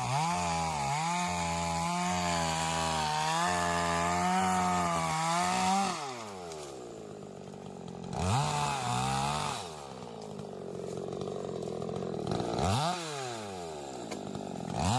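Chainsaw cutting wood, held at high speed for about six seconds before winding down, then revved briefly twice more, its pitch rising and falling each time, and once again near the end.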